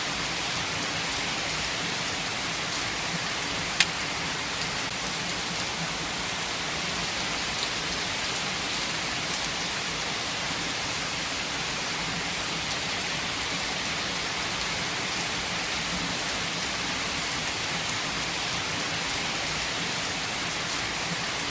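Steady rain falling, an even hiss with scattered drop ticks on a surface. One sharp click stands out about four seconds in.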